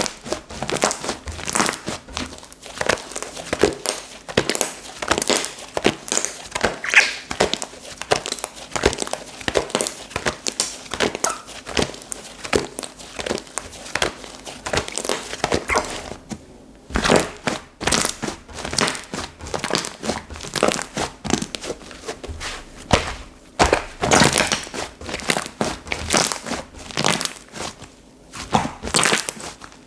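Slime being squished and stretched by hand, giving dense, irregular crackling and popping, with a brief quieter pause a little past halfway.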